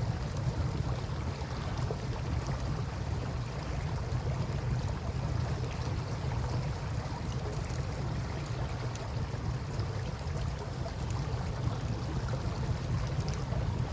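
Steady wash of river water at the shore, with a campfire burning and faint scattered crackles, over a low steady rumble.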